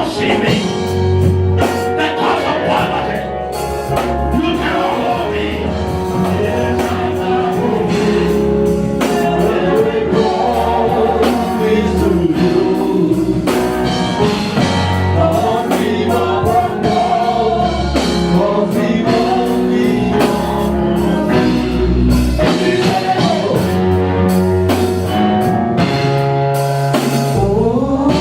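Gospel music with singing over a band with bass and drums.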